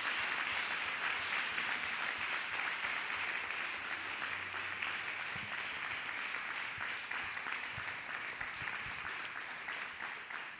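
A congregation applauding, a dense steady clapping that dies away near the end.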